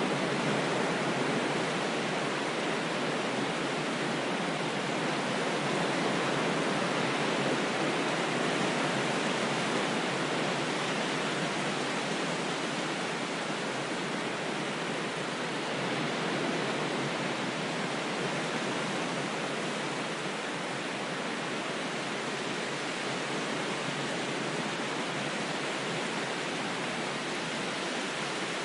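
Steady, even rushing of water noise, like constant surf or falling water, with no separate wave surges and the deepest bass cut away.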